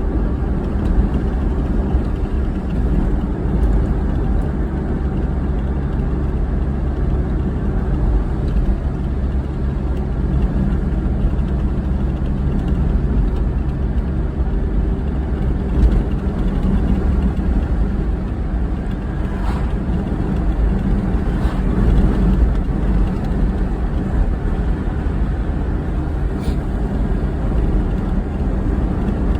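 Car driving at a steady speed: a continuous low rumble of engine and road noise, with a few faint clicks in the second half.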